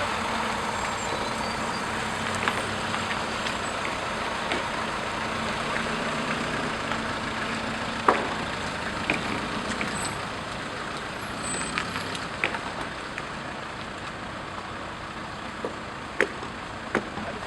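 Steady outdoor background noise with a low hum in the first half and scattered sharp clicks and knocks.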